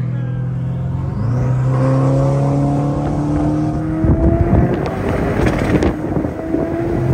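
Twin-turbo C8 Corvette's V8 heard from the open cockpit: it holds a steady note for about a second, then its pitch climbs as the car accelerates. From about four seconds in, a loud rush of wind and crackling noise joins the engine, whose note keeps rising.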